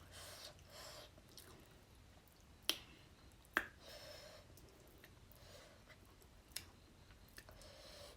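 Quiet chewing and mouth sounds of a person eating fish curry, with three sharp clicks standing out: about a third of the way in, just after that, and late on.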